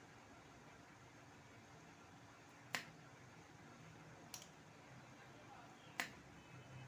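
Three short, sharp clicks a second and a half or so apart, over a faint steady hiss.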